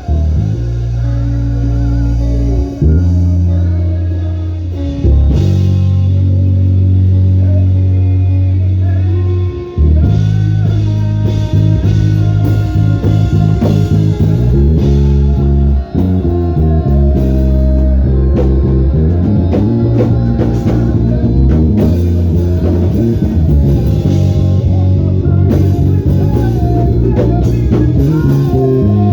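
Band music with a prominent bass guitar playing a line of held low notes, over guitar and drum kit.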